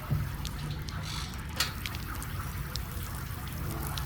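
Seawater trickling and splashing close by, with a few sharp splashes, the loudest near the start and about a second and a half in, over a steady low rumble.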